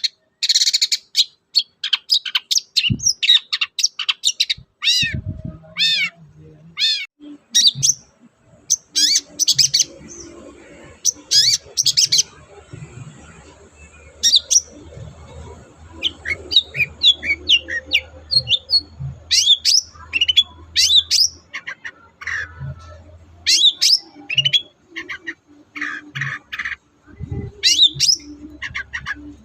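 Long-tailed shrike singing a rapid, varied song of short sharp chirps and harsh notes. A few seconds in comes a run of repeated downward-sweeping whistles. A faint low hum runs under the song through the middle.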